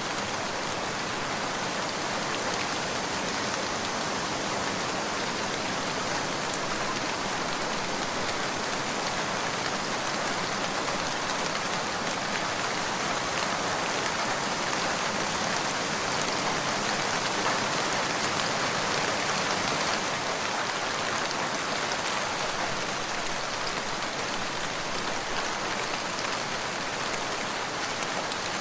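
Steady rain falling on a surface, an even patter with no breaks.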